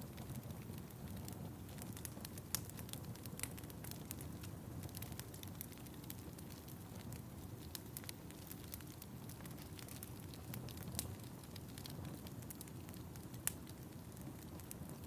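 Fire crackling in a fireplace: a steady low rumble of burning with scattered sharp snaps and pops, a few of them louder.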